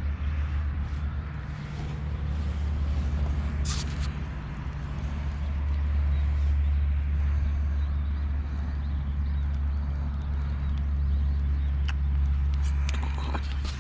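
A steady low rumble, with a few sharp crackles about four seconds in and near the end.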